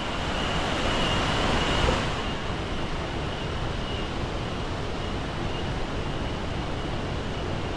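Iguazú Falls' waterfall rushing steadily, a dense even roar of falling water with a faint steady high note above it. The noise is brighter for the first two seconds, then slightly duller.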